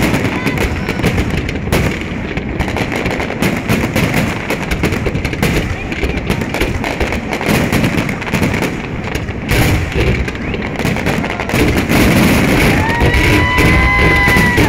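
Fireworks display: a dense barrage of aerial shells banging and crackling without a break, getting louder near the end, when a brief whistle sounds.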